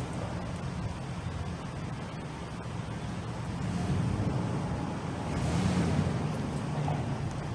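Road traffic rumbling steadily, with a vehicle passing louder about three-quarters of the way through.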